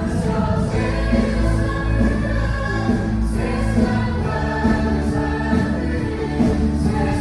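Live worship song: many voices singing together over a band with steady bass and sustained chords, heard as room sound picked up by a phone.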